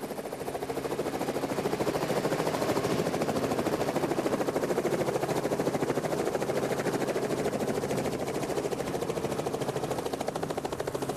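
Helicopter rotor blades chopping in a fast, even beat over the running engine, fading up in the first second or so and then holding steady.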